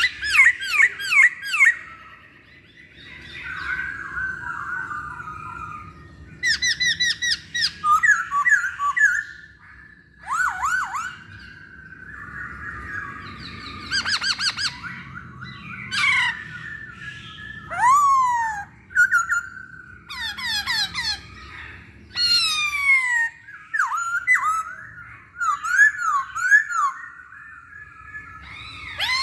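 Masked laughingthrush (poksay Hongkong) calling and singing in short phrases with brief pauses: quick runs of whistled notes, falling and rising glides, and harsh squawking notes.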